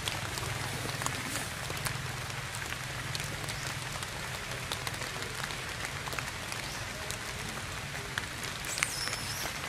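Steady rain falling on tree foliage, with many small drop ticks scattered through it, over a steady low rumble.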